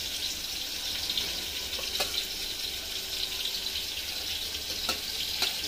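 Steady sizzling hiss of onions frying in oil. A few light clinks of a steel ladle against a stainless steel mesh strainer as boiled liver pieces are scooped out of their cooking water.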